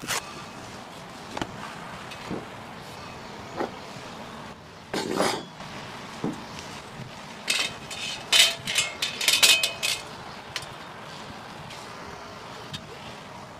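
Metal camping cookware and gear being handled: scattered single knocks, then a quick run of ringing metallic clinks about eight to ten seconds in.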